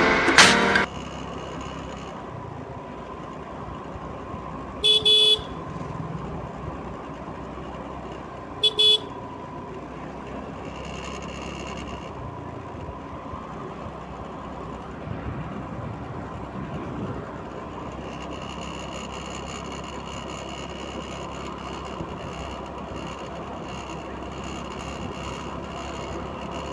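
Outdoor road ambience with a vehicle horn sounding twice: a half-second honk about five seconds in and a shorter one about four seconds later.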